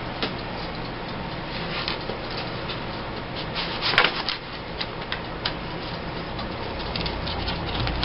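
Paper craft pieces and scrapbook embellishments being handled and sorted, with scattered rustles and light clicks, the loudest rustle about four seconds in, over a steady low room hum.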